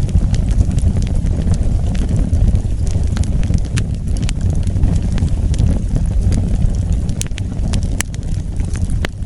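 Wood fire burning with a steady low rumble of flames and scattered sharp crackles and pops, a few of them louder.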